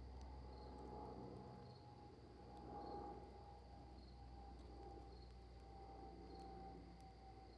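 Faint night campfire ambience. A cricket chirps steadily about once a second, wood gives a few soft crackles, and a faint steady tone runs underneath.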